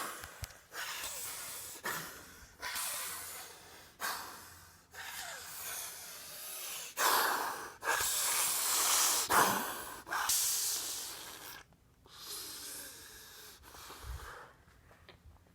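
A man breathing hard in pain: a dozen or so sharp hissing breaths, each about a second long, growing quieter over the last few seconds.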